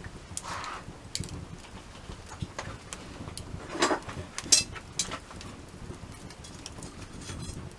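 Wood burning in a campfire, crackling with irregular sharp pops, a few louder ones about four seconds in, over a low rumble.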